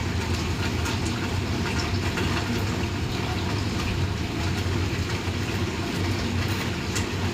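Steady rain falling during a thunderstorm, an even wash with faint patter, over a constant low rumble.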